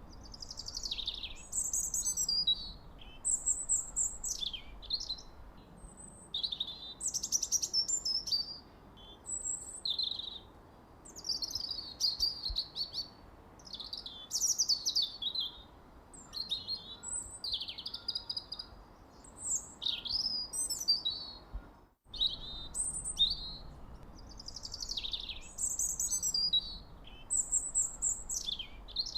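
Songbirds chirping and singing in a dense run of short, high phrases, many sweeping down in pitch, with a brief break about three-quarters through.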